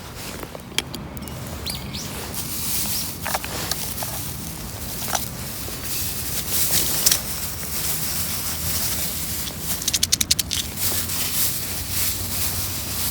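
Wood campfire burning, with a steady hiss and scattered sharp crackles and pops, and a quick run of rapid clicks about ten seconds in.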